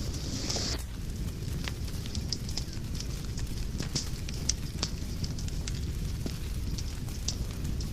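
Wood fire in a fireplace crackling: irregular sharp pops and snaps, several a second, over the steady low rumble of the flames, with a brief hiss in the first second.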